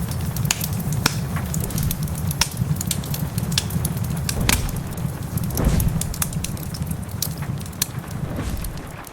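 Wood fire crackling, with frequent sharp irregular pops, over a steady low rumble of heavy rain. One heavier low thud comes about halfway through.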